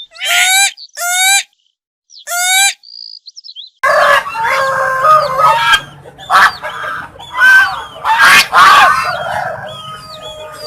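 Birds calling: three short, harsh pitched calls in quick succession, then from about four seconds in many birds calling over one another over a steady background din.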